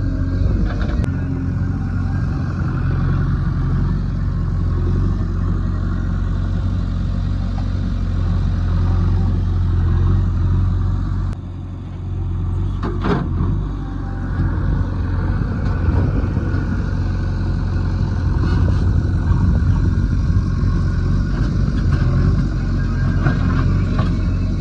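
JCB 3DX backhoe loader's diesel engine running steadily under work. Its level dips briefly just past the middle, and a single sharp knock follows shortly after.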